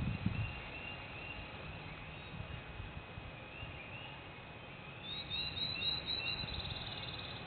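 Songbirds singing: short whistled notes throughout, and a rapid run of high chirps about five seconds in, over a low background rumble.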